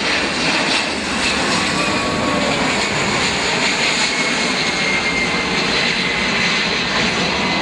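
Aircraft engine running loud and steady, a dense rushing noise with faint high whining tones that drift slowly downward.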